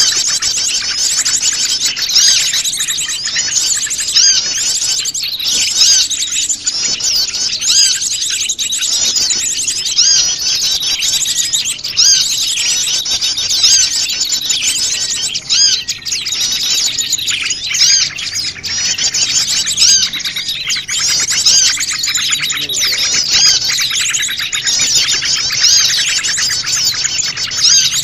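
Dense, noisy chorus of many small wild birds chirping and twittering over one another without a break: a mixed small-bird lure recording of the kind played to draw wild birds in.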